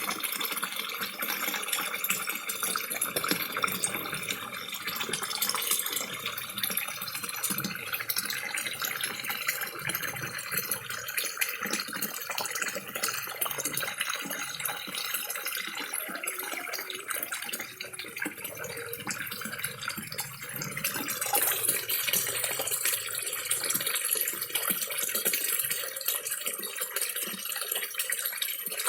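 Small garden waterfall splashing and trickling into a koi pond without a break, mixed with many small slurping splashes from koi feeding together at the surface.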